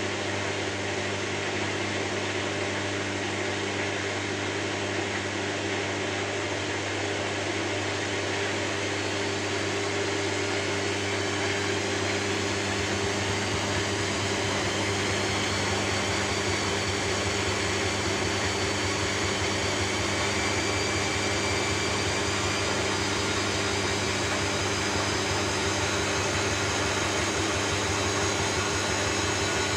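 Steady whirring hum and hiss of a running machine, played as white noise, with several steady low tones. About halfway through, faint high whines slowly begin to rise in pitch.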